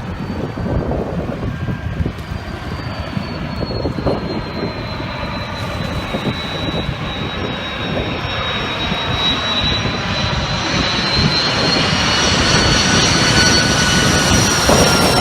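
An engine with a high whine, growing steadily louder over a rush of wind noise.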